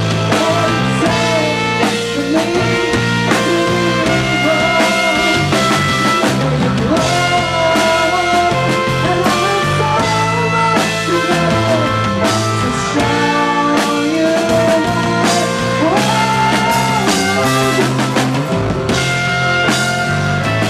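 Live rock band playing an instrumental passage, with drum kit and guitar over a steady beat.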